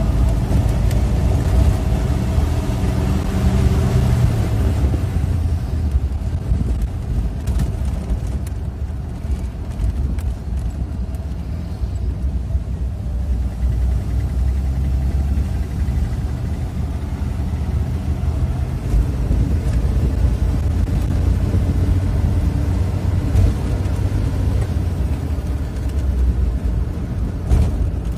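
1934 Rolls-Royce 20/25's straight-six engine running as the car drives at road speed, a steady low rumble with road noise. A slight ticking rides on it: a little piston slap from the car's original, never-overhauled engine.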